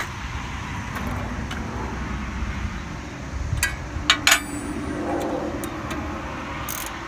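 Hand tools being handled and worked against metal: a steady rough handling noise, with three sharp metallic clicks about halfway through.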